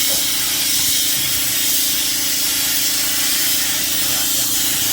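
One long, steady, loud hiss of pressurised air from a nozzle, over a low steady hum.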